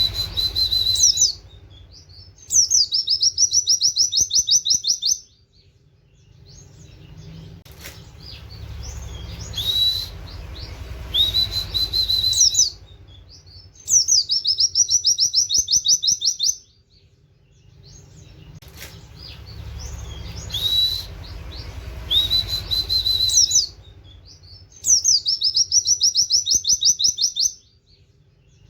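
A white-eye (pleci) singing rapid 'nembak' song: a short rising whistled note, then a fast trill of quick repeated notes lasting two to three seconds. The same pattern repeats about every eleven seconds, with a low rumble between phrases.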